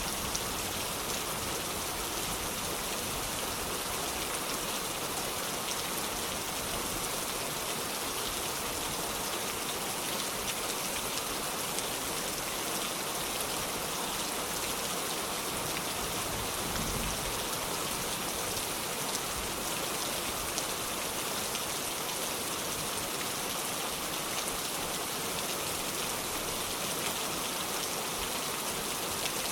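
Heavy rain falling steadily: an even hiss made of many small drop impacts, with no change in intensity.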